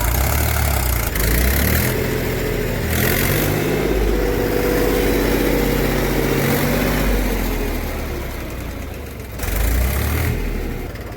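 Heavy machinery diesel engine running and revving. Its pitch climbs and then eases back down over several seconds, with a short rev-up near the end.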